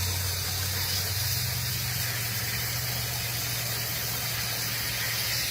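A vehicle engine running steadily under an even hiss, its low hum stepping slightly higher about a second in.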